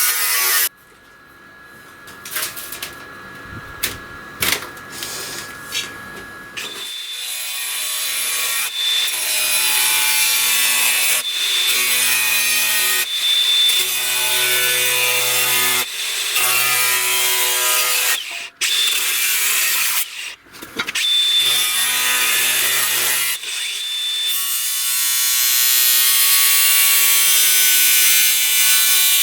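Power tool working material with a steady grinding hiss and a high whine, its motor load cutting in and out several times. Near the start there is a quieter few seconds with scattered clicks.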